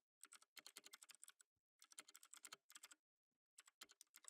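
Soft, quick typing on a computer keyboard in runs of keystrokes, broken by two short pauses.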